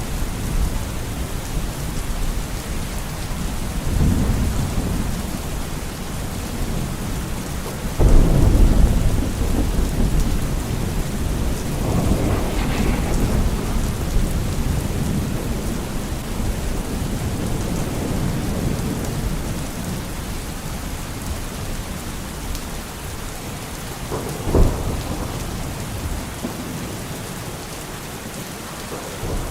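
Steady rain falling in a thunderstorm, with rolling thunder: a rumble swells about four seconds in, the loudest clap breaks suddenly about eight seconds in and rolls away, another rumble follows a few seconds later, and a short crack sounds near the end.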